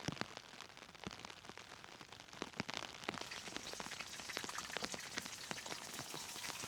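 Heavy rain pattering on a tent: a dense hiss of drops with many sharp single drop hits, growing a little heavier about three seconds in.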